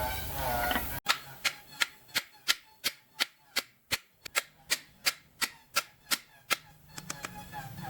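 Hammer striking metal in a steady rhythm, about three sharp blows a second for several seconds, ending in a few quicker, lighter taps.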